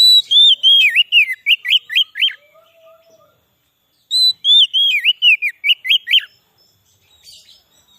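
Oriental magpie-robin (kacer) singing: two phrases of quick, repeated whistled notes that dip and rise in pitch, each about two seconds long, with a pause of about two seconds between them.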